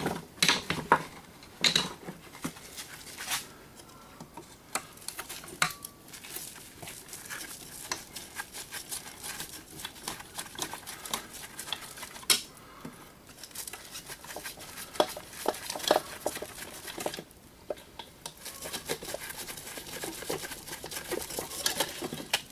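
Irregular metallic clinks, taps and scrapes of hand tools on a coffee grinder's metal housing and parts as it is taken apart.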